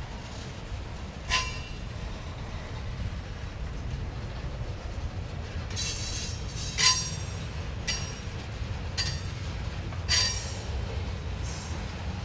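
Freight train cars (tank cars and covered hoppers) rolling past slowly with a steady low rumble. About half a dozen brief, sharp metallic squeals come from the wheels; the loudest is about seven seconds in.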